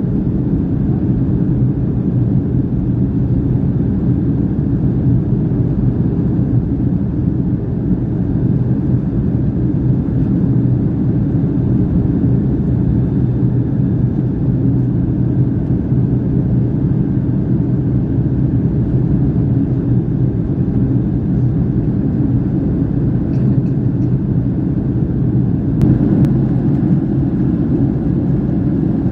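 Cabin noise inside a Boeing 757-300 airliner: a steady, loud low rumble of engines and airflow that holds level throughout, with a brief click near the end.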